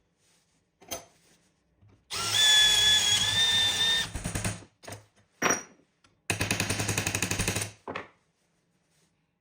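Handheld electric power tool run in short bursts. After a click, it runs for about two seconds, its whine climbing as the motor comes up to speed. A brief blip follows, then a second run of about a second and a half that pulses rapidly, and a last short blip.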